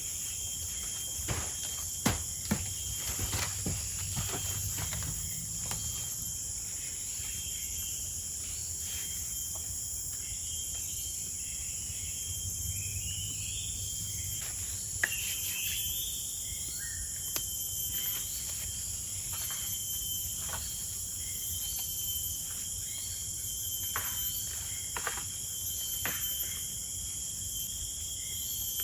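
Forest insects, crickets among them, calling in a steady high-pitched chorus, with scattered short clicks and a few faint chirps over a low background rumble.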